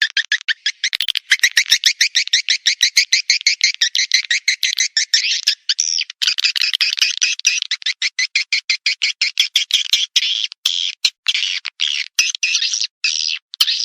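Swiftlet calling-sound recording: a rapid, chattering twitter of chirps repeating many times a second, with brief breaks along the way, of the kind played to lure swiftlets to nest.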